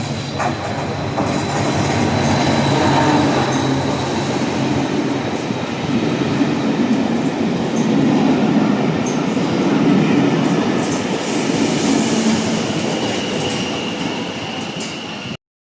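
A train running past on the line: a steady rush of wheel and rail noise that swells and ebbs, with a thin high whine over it. It cuts off suddenly near the end.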